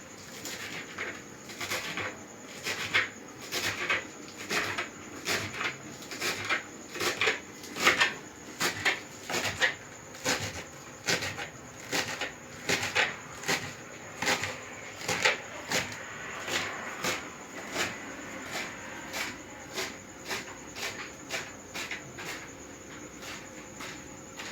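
Knife chopping fresh coriander and green onions on a cutting board: a steady run of short knocks, a little under two a second.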